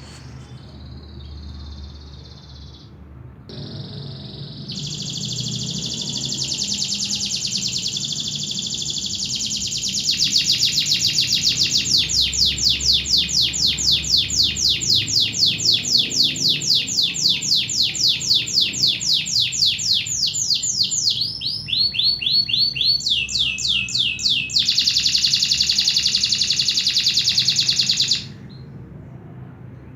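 Domestic canary singing a long unbroken song of fast trills, high and loud, switching between several trill phrases before stopping abruptly near the end.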